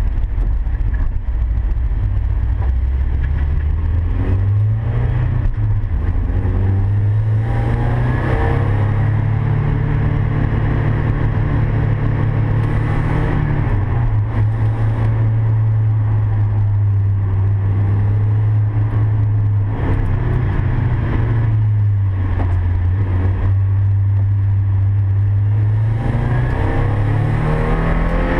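Mazda MX-5's four-cylinder engine heard from inside the cabin at track speed, with tyre and wind noise. The revs climb twice in the first eight seconds, drop about 13 and 20 seconds in as the driver shifts and brakes, and climb again near the end.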